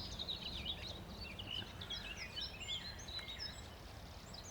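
Faint birdsong from several birds: quick, overlapping chirps and warbling phrases, over a low background rumble.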